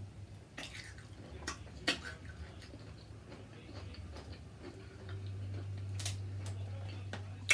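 A few scattered sharp clicks and light taps over a steady low hum.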